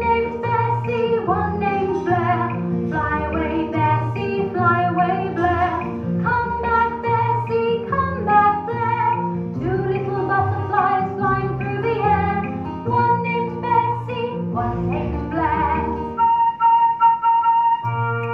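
Music: a woman singing a children's finger-play song over instrumental backing. The singing stops about sixteen seconds in, leaving a few held instrument notes.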